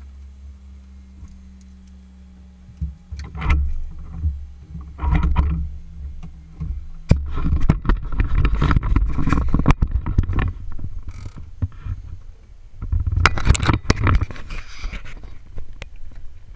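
A steady low hum, then from about three seconds in, irregular rustling, scraping and sharp knocks, loud and close.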